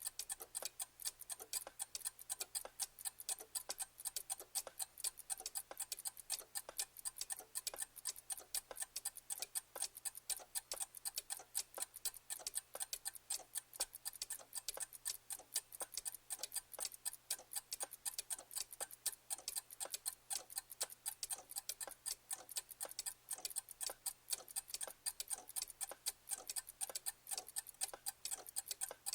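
Clock ticking steadily, with many sharp ticks a second.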